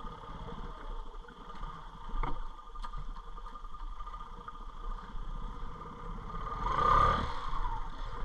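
Snorkeled ATV engine running at low revs while sitting in deep creek water, with a couple of small knocks. It swells louder briefly about seven seconds in as it is throttled.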